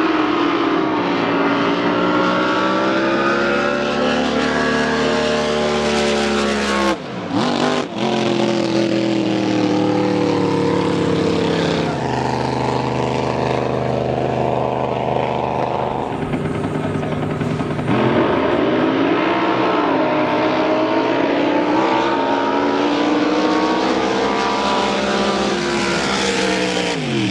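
Drag boat racing engines running loud, their pitch rising and falling as they rev, with several abrupt changes in the sound and a falling sweep near the end.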